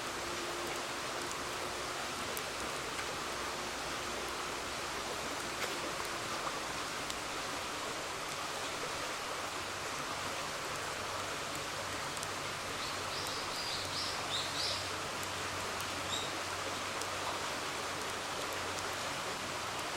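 A river flowing steadily with a campfire crackling faintly now and then. A brief run of high chirps comes about two-thirds of the way through.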